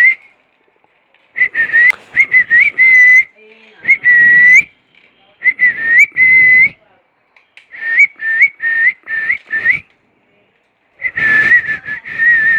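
Whistling in short groups of notes held around one pitch, many of them flicking upward at the end, with a few longer notes and brief silent pauses between groups.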